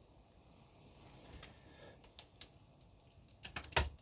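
Scattered small sharp clicks and taps of model suspension parts being handled and fitted: a pair about two seconds in and a quick cluster near the end, the last click the loudest.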